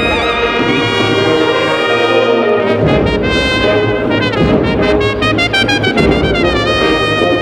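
Agrupación musical, a Spanish Holy Week band of brass and percussion, playing a processional march: a full brass melody with slight vibrato over a low brass and bass part.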